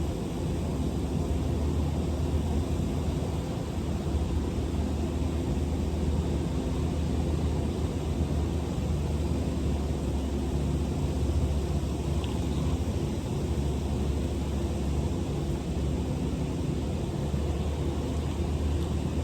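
Semi-truck cab noise on the road: the diesel engine's steady low drone under tyre and road noise, at a constant level.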